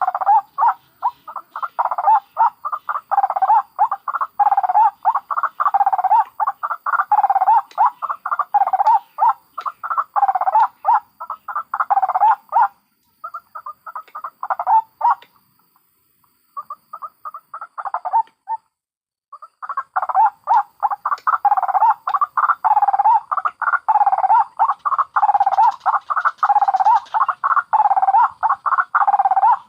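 White-breasted waterhens (ruak-ruak) giving their loud, rapid, repeated cackling calls, several notes a second. About halfway through the calling breaks into short phrases with brief pauses, then resumes at full pace.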